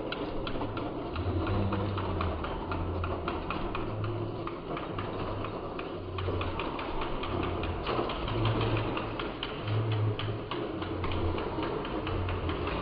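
Battery-powered toy running along plastic track: a rapid, steady clicking, about five or six clicks a second, over a small motor hum that comes and goes.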